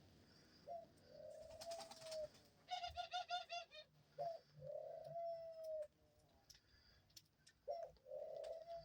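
Dove cooing softly: three drawn-out coos, with a quick run of short notes between the first two.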